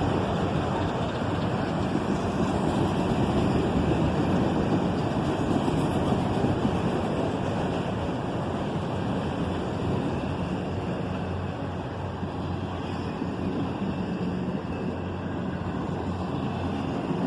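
A CSX double-stack intermodal train's cars rolling past: a steady rumble of steel wheels on the rails, easing off slightly as the train slows.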